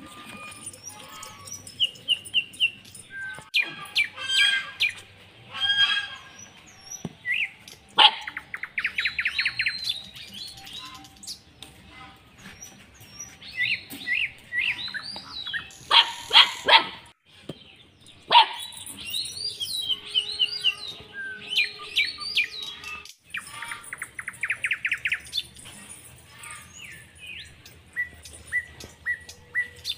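Small birds chirping and trilling over and over, in quick runs of high notes. A few short barks stand out about halfway through.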